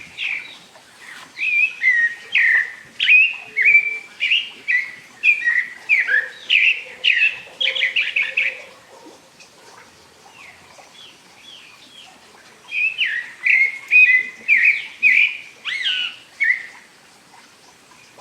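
A songbird singing two long bouts of quick, repeated short notes that slide up and down, with a pause of a few seconds between them.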